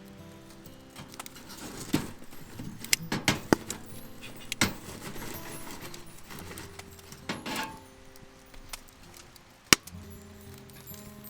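Scattered clinks and knocks of small hard objects being handled, with one sharp knock near the end, over quiet background music.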